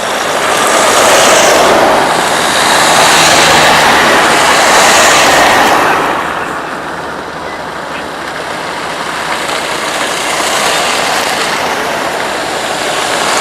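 A vehicle on the move: loud road and wind noise that swells and eases in waves, dipping somewhat in the second half.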